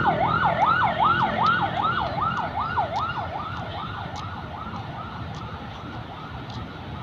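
Emergency vehicle siren in a fast yelp, its pitch sweeping up and down about two and a half times a second, fading steadily as it moves away.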